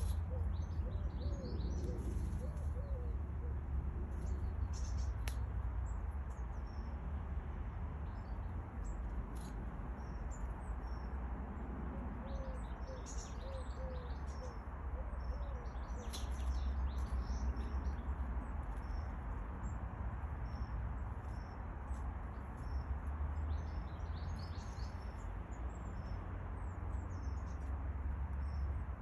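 Small garden birds chirping and calling in short, scattered high notes throughout, over a steady low rumble.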